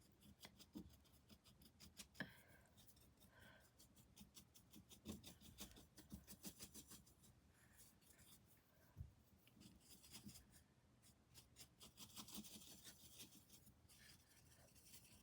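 Faint, quick strokes of a paintbrush scrubbing and dabbing thick paint onto canvas, in uneven runs.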